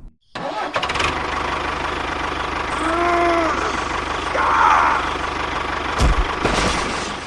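An engine running steadily with an even low throb, with a short rising-and-falling tone about three seconds in.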